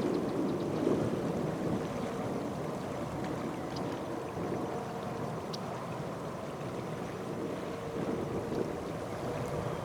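Steady, distant rumble of the Airbus A380's four jet engines at takeoff power, mixed with wind on the microphone.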